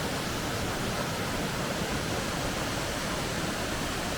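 Minō Waterfall, a 33 m cascade, pouring into its plunge pool: a steady, unbroken rushing of falling and splashing water.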